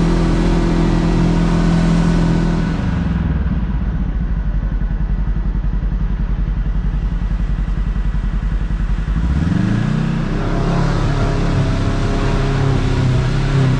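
Kawasaki KRX side-by-side engine running under throttle, then dropping to a low, even putter off the throttle for about six seconds. It revs up again about nine and a half seconds in and keeps pulling.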